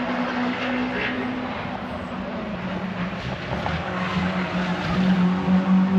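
Lorry engine running with a steady low drone that drops a little in pitch about two seconds in and grows louder near the end, as a truck draws closer.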